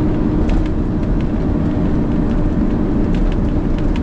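Steady rumble of a Peterbilt truck's diesel engine and road noise heard inside the cab while driving slowly, with a steady drone tone and a few light ticks or rattles.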